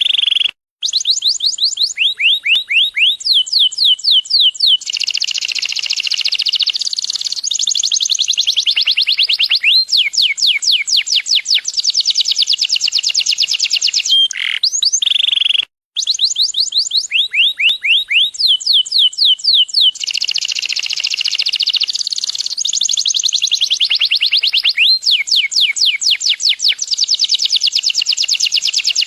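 Domestic canary singing a long, loud song of rapid trills and quick downward-sweeping notes, with brief breaks about a second in and about halfway; the same song passage repeats after the break.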